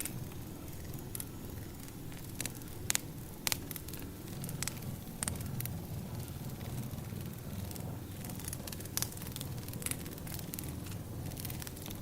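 Wood fire burning: irregular sharp crackles and pops over a steady low rumble of the flames. The two loudest pops come about three seconds in.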